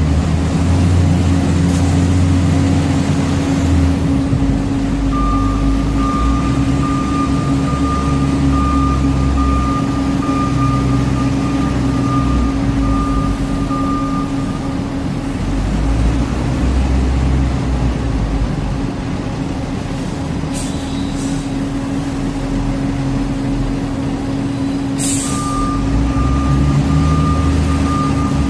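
Heavy truck engine running steadily, with a back-up alarm beeping in a long run of beeps and again near the end. Two short air hisses, like air-brake releases, come about two-thirds of the way through.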